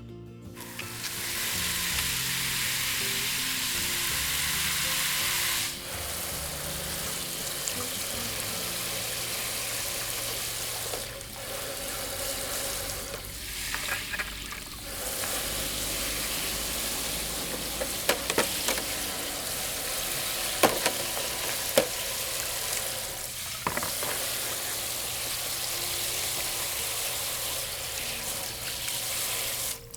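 Food frying on a grill with a steady sizzle, broken off briefly a few times, with a few sharp pops or clicks in the middle.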